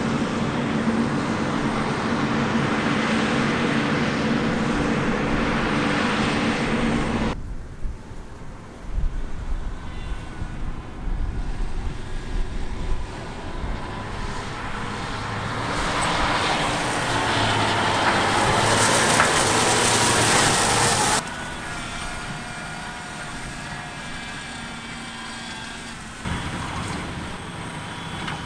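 Heavy diesel harvest machinery running steadily. The sound changes abruptly about seven, twenty-one and twenty-six seconds in, with the loudest stretch just before the second change.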